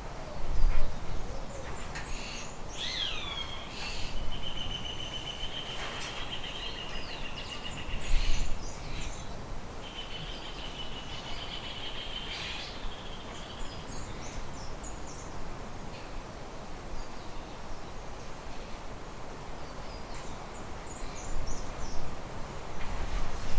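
Birds calling: a falling call about three seconds in that runs into a long rattling trill, a second trill about ten seconds in, and scattered short high chirps. A few low bumps near the start, about eight seconds in, and near the end.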